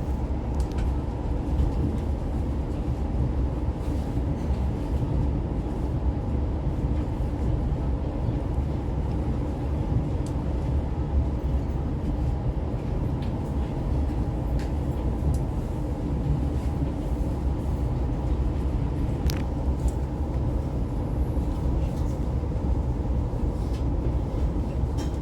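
Oscar H set electric train running, heard from inside the carriage: a steady low rumble of wheels on rail with a few faint clicks.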